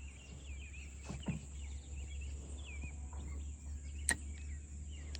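Small birds chirping in short, repeated curving calls over a steady low rumble, with a soft thump about a second in and a sharp click about four seconds in.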